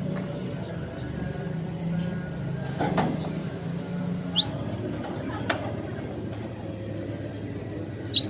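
A lull in a gelatik batu (cinereous tit) song: one short, rising high chirp about halfway through, over a low steady hum with a couple of faint clicks.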